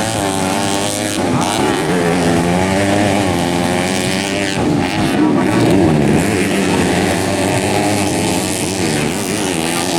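Several dirt-bike engines racing at once, their pitches rising and falling and overlapping as the riders rev up and back off.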